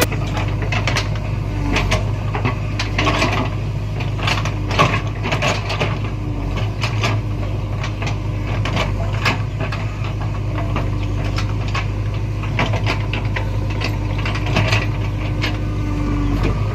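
An engine or machine running steadily with a low hum, overlaid by irregular clicks and knocks and a faint tone that comes and goes.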